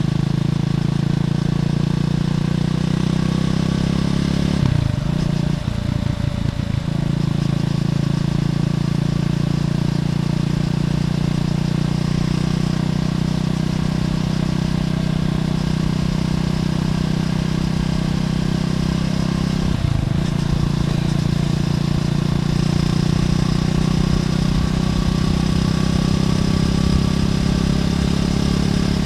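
Triumph Scrambler 400X's single-cylinder engine running through its stock exhaust at a steady, even note while riding, with brief drops in the engine note about five seconds in and again near twenty seconds.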